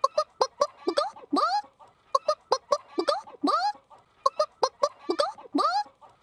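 A person imitating a chicken: a run of quick clucks followed by a longer squawk that bends up and then down in pitch. The same phrase repeats about every two seconds, as a loop.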